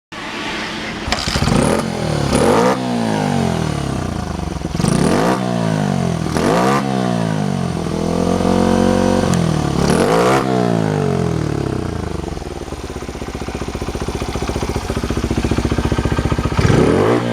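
Honda Ape small motorcycle's single-cylinder four-stroke engine running and being revved in short blips several times, held briefly at higher revs about halfway, then settling to a steady idle with one more rev near the end.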